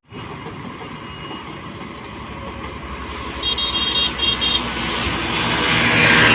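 A large truck approaching and passing close by on the road, its engine and tyre noise growing steadily louder, with a few short horn blasts about halfway through.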